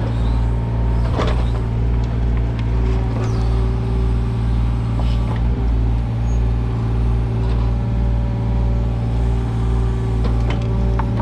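Kubota U55-4 mini excavator's diesel engine running steadily under working load, with a few short knocks or clanks near the start and end.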